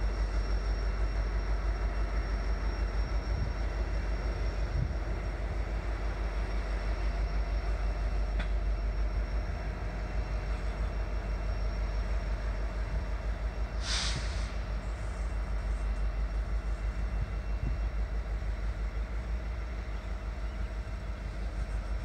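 Loaded coal cars of a freight train rolling past, a steady low rumble of wheels on rail. A brief high-pitched squeal cuts in past the middle.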